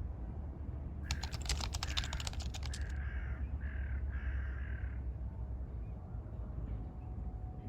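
A bird calling about five times in a row. A run of rapid clicking, about two seconds long, starts about a second in. A low steady rumble sits underneath.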